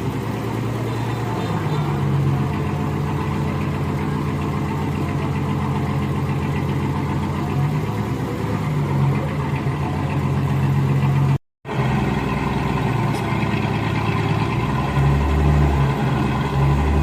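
Heavy equipment's diesel engine running steadily, its note stepping up a little a couple of times. The sound cuts out for a moment about eleven seconds in.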